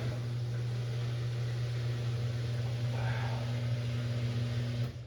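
Front-loading washing machine humming steadily with a low electric motor or pump drone during a test run after a door-seal replacement. The hum cuts off suddenly near the end.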